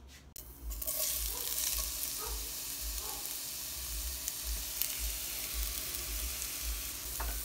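Drained canned jackfruit sizzling as it hits hot cooking oil in a stainless steel pan. The steady sizzle starts suddenly about half a second in, as the pieces are tipped in from a glass bowl.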